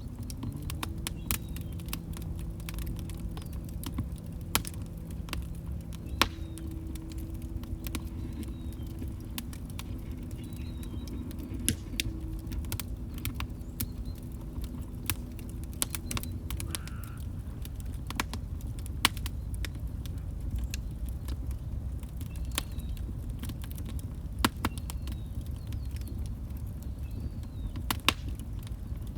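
Wood fire burning in a fireplace: a steady low rumble with frequent sharp, irregular crackles and pops. A faint low steady tone runs under it and stops about halfway through.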